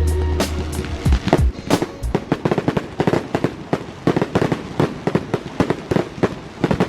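Fireworks display: a rapid, irregular barrage of bangs and crackling reports, several a second.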